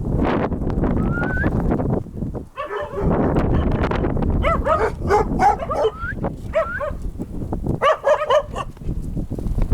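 A dog giving short, high-pitched cries in several quick bursts, some bending up or down in pitch, over steady wind noise on the microphone.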